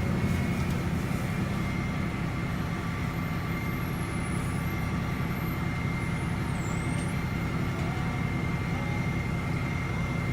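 Garbage truck running steadily, its engine steady and low, with a steady high whine above it.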